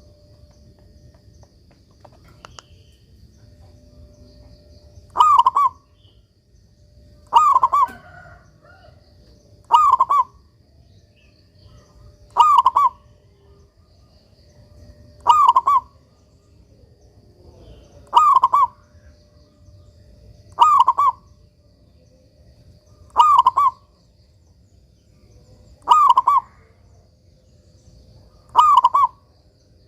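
Local zebra dove (perkutut) cooing its song: a short phrase repeated about every two and a half seconds, ten times, starting about five seconds in.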